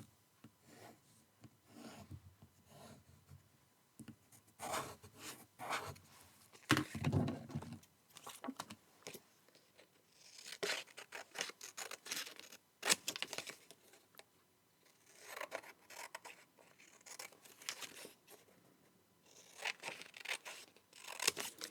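Paper and card being handled: short rustles, scrapes and crinkles as a cut-out piece is slid and fitted into place, coming in bursts with quiet gaps between them.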